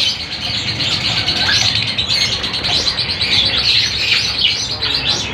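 Lovebirds chattering, a dense, continuous run of high chirps.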